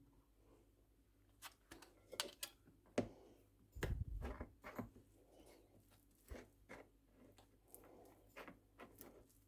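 Quiet kitchen handling sounds: scattered small clicks and taps, with a soft low thump about four seconds in.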